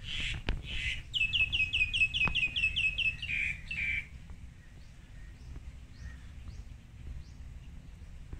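A bird singing: a quick run of about ten identical falling, whistled notes, some five a second, with a few harsher calls just before and after it, then only faint scattered chirps.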